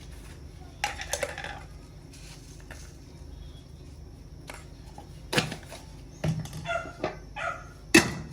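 Scattered sharp knocks and clatter, about half a dozen strikes spread unevenly, the loudest near the end.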